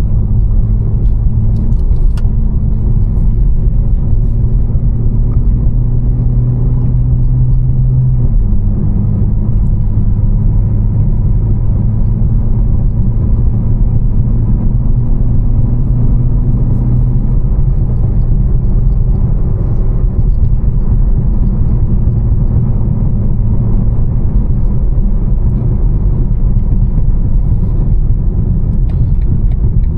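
Tuned BMW M4 Competition's twin-turbo inline-six with catless exhaust cruising steadily: a low engine drone over road rumble. The engine note shifts in pitch about 2 and 8 seconds in, and the drone drops back to plain rumble a little past halfway.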